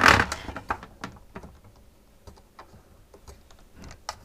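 A short rustle or scrape at the start, then scattered light clicks and taps from handling the plastic parts and hoses of a disassembled SodaStream.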